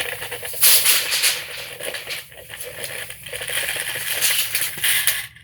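Lufkin 30-foot tape measure's steel blade retracting into its case, a loud continuous rattle lasting about five seconds.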